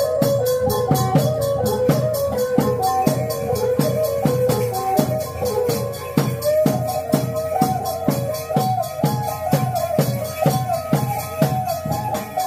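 Khmer chhay yam music: drums and cymbals keep a fast, even beat under a stepping melodic line.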